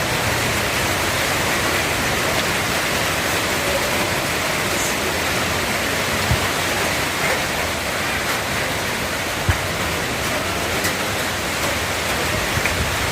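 Heavy rain pouring down in a steady, even hiss, with a couple of faint ticks.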